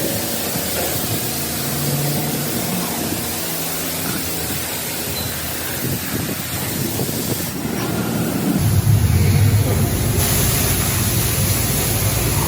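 High-pressure car-wash wand spraying water onto a car, a steady hissing spray. The sound changes abruptly a few times, and in the last few seconds a low hum runs underneath.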